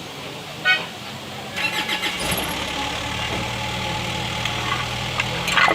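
Isuzu 4JB1 four-cylinder diesel engine starting about two seconds in, then running at a steady idle.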